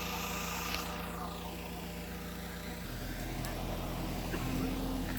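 Heavy earthmoving machine's diesel engine running steadily, its engine note changing about three seconds in.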